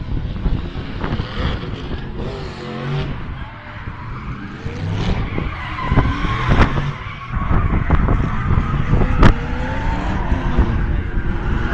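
Drift cars' engines revving hard while their tyres skid and squeal, with a few sharp cracks, the loudest near the end.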